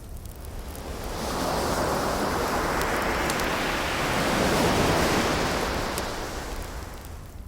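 An ocean wave breaking and washing up the shore, swelling about a second in, peaking past the middle and fading out near the end, with faint crackles of a wood fire underneath.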